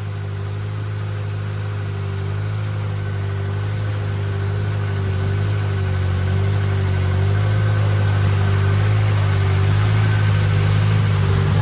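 A boat's engine running steadily, with a steady hiss over it, growing gradually louder.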